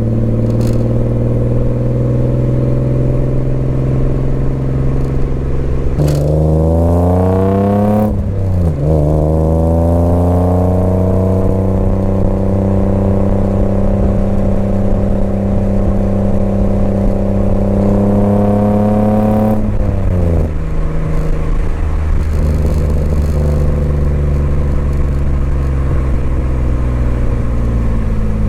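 BMW E28's swapped M50B25 inline-six running through Schmiedmann stainless headers and a 3-inch stainless exhaust with small mid and rear silencers, held at steady revs. About six seconds in the revs climb for two seconds, then drop sharply as on a gear change. Near twenty seconds they rise briefly and fall again before settling.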